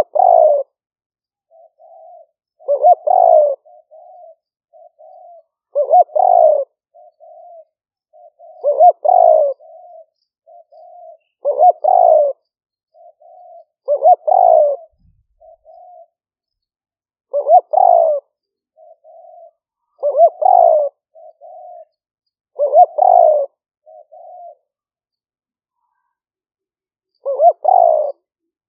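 Spotted dove cooing over and over: a loud coo phrase about every three seconds, with softer short coos between them, and a pause of a few seconds before the last phrase.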